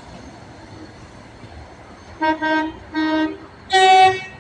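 Train horn sounding in a quick run of blasts: short ones on a lower note, then a louder, longer one on a higher note.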